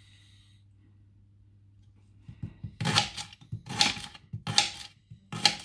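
Knife chopping leeks on a chopping board: after a quiet start, four strokes a little under a second apart.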